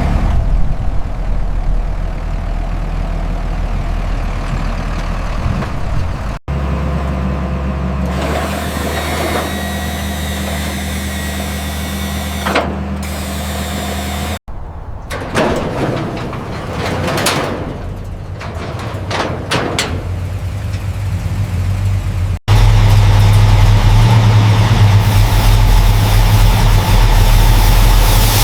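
Machinery running with a steady low hum, in several separate segments that change abruptly about every eight seconds; the third segment has rising and falling noisy sweeps, and the last one is louder.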